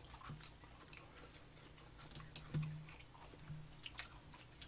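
Faint chewing and small mouth clicks from people eating, scattered and irregular, over a low steady hum.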